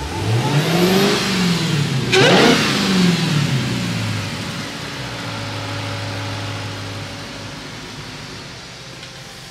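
Supercharged 6.2-litre HEMI V8 of a 2023 Dodge Challenger SRT Hellcat Jailbreak with a Stage 1 Direct Connection tune, revved twice at a standstill. The first rev climbs and falls back, a second, sharper rev comes about two seconds in, and the engine then settles to a steady idle.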